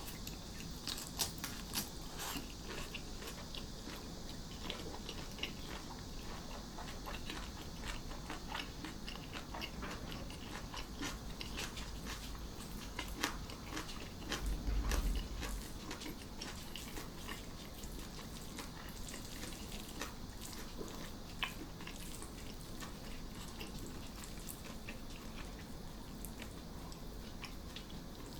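Close-up crunching and chewing of crisp food, a run of sharp bites and crunches, over a steady high drone of cicadas. A low bump, likely against the table or microphone, about halfway through.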